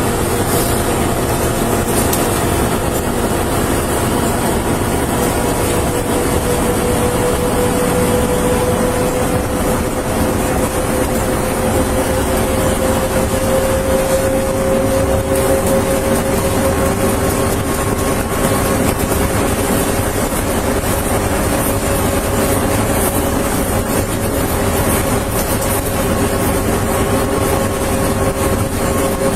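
Steady car engine and road noise, with a faint hum that slowly rises in pitch.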